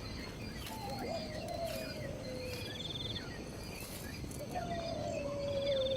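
Birds calling: two long whistled notes that slowly fall in pitch, each about two seconds, one shortly after the start and one near the end. Short chirps and brief high trills come between them.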